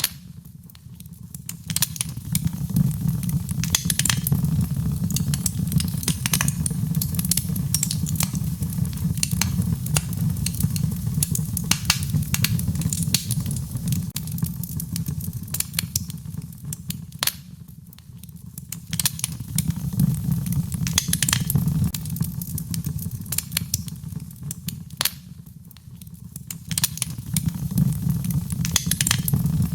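Wood fire crackling in a fireplace: a steady low rumble of flames with frequent sharp pops and snaps, easing off for a moment three times.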